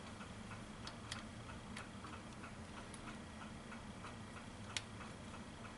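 Faint, regular ticking, with one sharper click about five seconds in.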